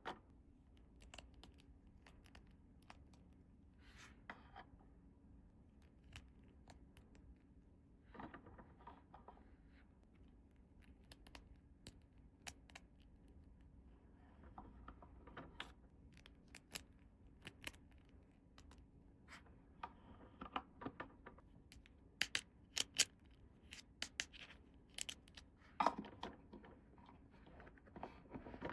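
Miniature plastic toy pieces and their packaging being handled: scattered light clicks and taps with a few brief rustles, more frequent in the last third.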